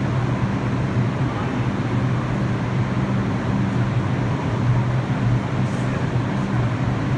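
An R62 subway train running into the terminal station: a steady rumble with a constant low hum and no sharp changes.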